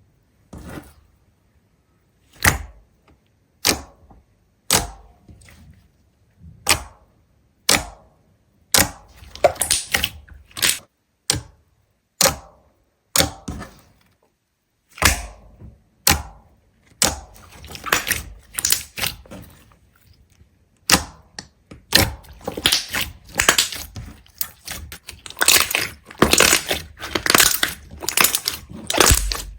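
Sharp cracks and snaps, at first single ones about a second apart, then crowding into dense runs of crunching through the second half.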